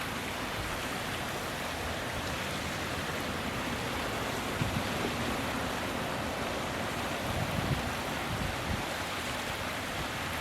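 Steady rushing of flowing water, with a few soft low thumps midway through.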